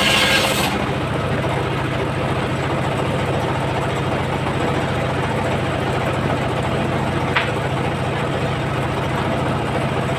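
Engine of a homemade circular sawmill running steadily. A high hissing cutting noise cuts off under a second in, leaving the engine running without load, with one short sharp squeak about seven seconds in.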